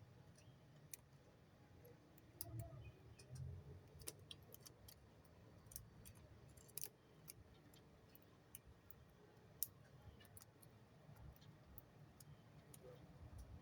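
Near silence, broken by faint, irregularly spaced sharp clicks and ticks over a low hum.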